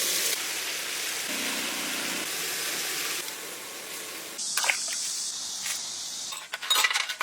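A steady rushing hiss, then from about four and a half seconds in a run of clicks and light knocks, like things being handled.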